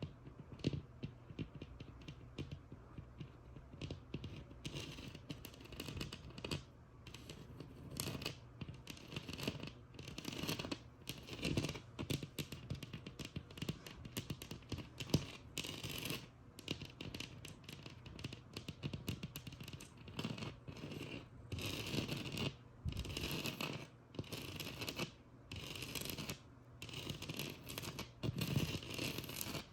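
Tapping and scratching on a textured wall: quick light taps for the first few seconds, then scratching in short strokes with brief pauses between them.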